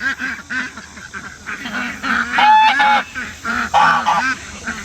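A flock of domestic ducks calling as they are let out of their pen, with many short, overlapping quacks and honks and one louder, longer honk about halfway through.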